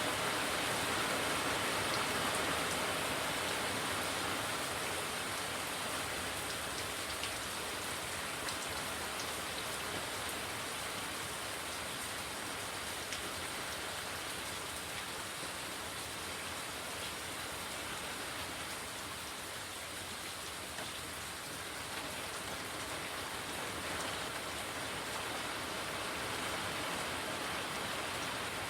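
Steady rain falling, with scattered individual drops ticking on surfaces. It eases slightly after the first few seconds.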